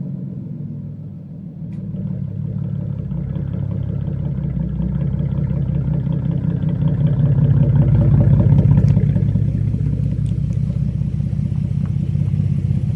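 An engine running steadily after starting up, its hum swelling slightly about two seconds in and then holding even.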